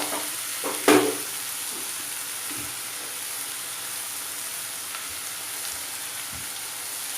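Chicken and vegetables sizzling steadily as they stir-fry in an open pan with soy sauce and vinegar, with one sharp knock of the stirring utensil against the pan about a second in.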